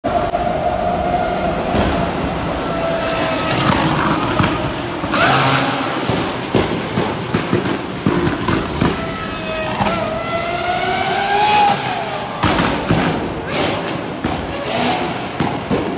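Supercar engines revving hard, the pitch climbing and dropping several times, with one long climb about ten seconds in that falls away near twelve seconds. Sharp exhaust pops and crackles are scattered through.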